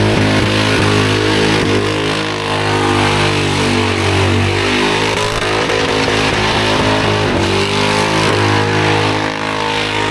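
Car engine revving hard during a burnout, its pitch rising and falling over and over as the throttle is worked.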